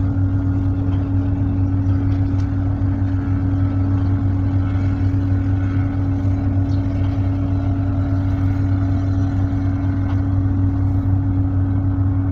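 Tugboat's diesel engine running steadily, a constant low drone with a steady hum.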